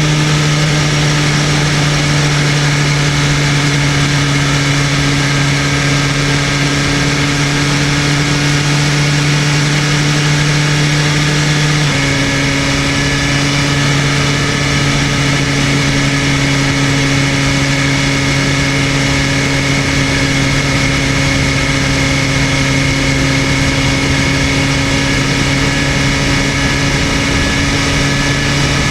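BMW M1000RR's 999 cc inline-four running at steady revs under way, a constant engine note over wind rush. About twelve seconds in the engine note drops slightly and then holds steady again.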